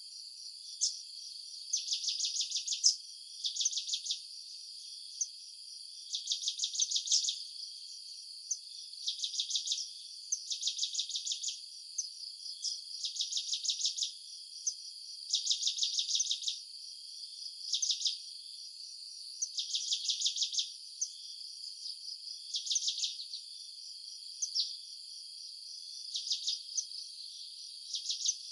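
Insects chirping in repeated bursts of rapid pulses, each about a second long and coming every second or two, over a steady high-pitched buzz.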